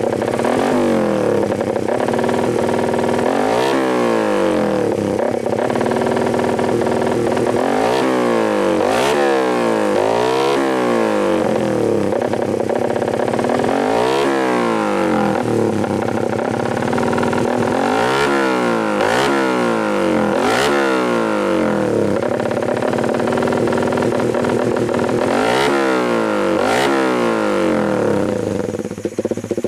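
Suzuki Satria FU fuel-injected 150 cc single-cylinder engine running through a Tetenk PRO-MP aftermarket racing exhaust with a full silencer packing, idling with about seven quick throttle blips that rev up and fall back, some in pairs.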